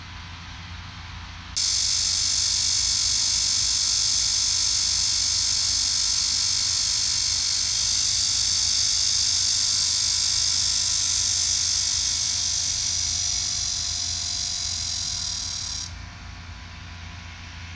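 A cicada singing close by: a loud, steady, high buzz that starts suddenly about a second and a half in and stops abruptly about two seconds before the end.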